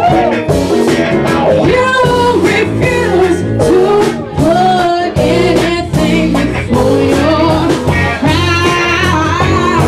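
A band playing live: a singer's voice carrying a melody over electric guitar, bass and drums.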